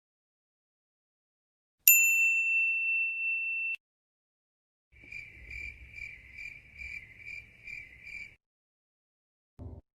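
A single bright electronic ding about two seconds in, ringing for nearly two seconds and then cut off abruptly. A high beeping tone follows, pulsing about twice a second for about three and a half seconds.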